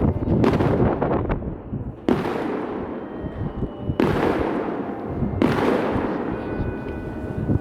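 Aerial firework shells bursting: four loud booms about every one and a half to two seconds, each followed by a long, echoing rumble.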